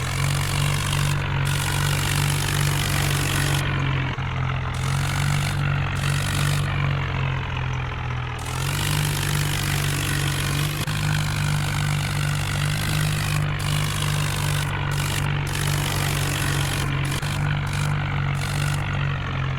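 Heavy diesel engine running steadily at a constant low speed, with no revving.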